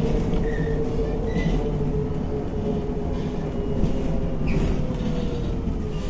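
MAZ-105 articulated city bus heard from inside the cabin while driving: a steady drone and rumble with a whine that drops slightly in pitch near the end, and a few short high squeaks.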